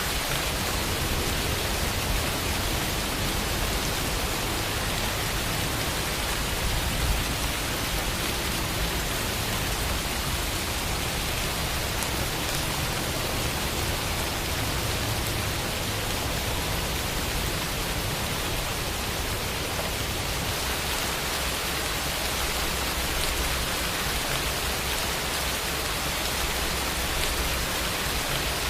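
Steady rain falling, an even hiss with scattered drops hitting a surface.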